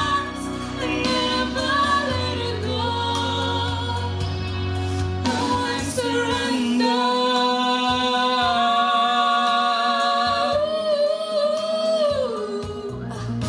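Two female singers performing a slow ballad duet over a backing track, with long sustained notes; the bass of the accompaniment drops away about halfway through.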